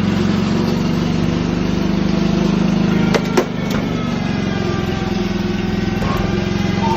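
Small engine running steadily, with a couple of sharp clicks a little over three seconds in.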